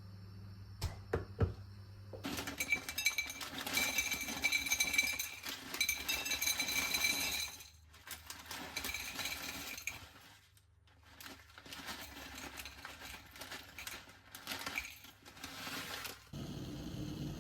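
Kitchen work: a few sharp clinks, then dishes, glass and utensils clattering and rattling, with two short pauses.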